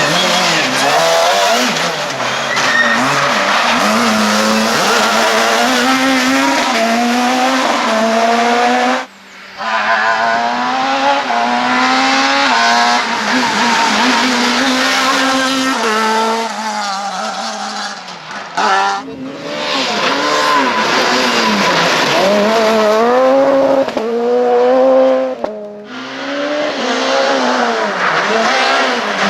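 Super 2000 rally cars driven flat out on a stage, their 2.0-litre naturally aspirated four-cylinder engines revving high and shifting up again and again, pitch climbing and dropping back at each gear change. The sound breaks off sharply three times, as one car gives way to the next.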